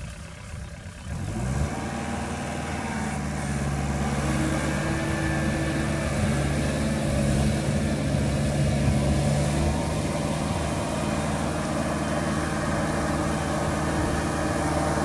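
Kubota L3408 tractor's three-cylinder diesel engine speeding up about a second in, then running steady under load as it drives the rotavator through the paddy mud.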